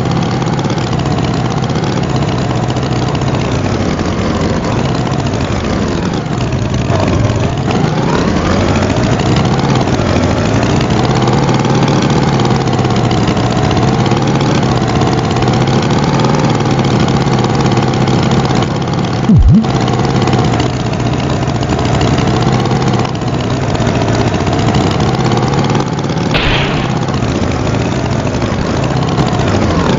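Cartoon tractor engine sound effect, running steadily with its pitch slowly rising and falling. About two-thirds through comes a brief, loud low swoop.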